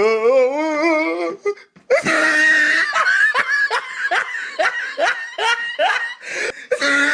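A person laughing hard: a wavering drawn-out laugh at first, then a long run of short ha-ha bursts, about two to three a second.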